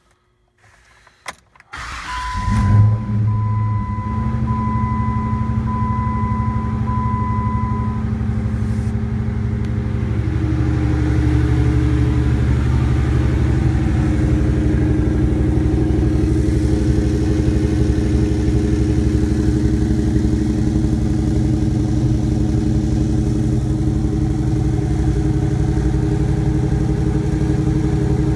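Cold start of a Chevrolet LS3 6.2-litre V8 swapped into a Jeep Wrangler JK. The engine catches about two seconds in with a short rev flare, then settles into a steady idle through the exhaust. A chime beeps five times in the first seconds after it starts.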